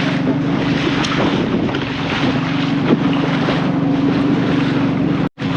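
A small boat's engine running steadily under way, with wind buffeting the microphone and water slapping against the hull. The sound cuts out for a moment near the end.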